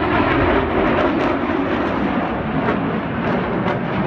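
An airplane in flight, its engine noise loud and steady.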